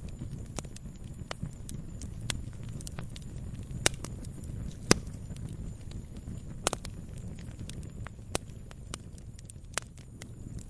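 Campfire burning, a low steady rumble of flame under irregular sharp crackles and pops, the loudest pop about five seconds in.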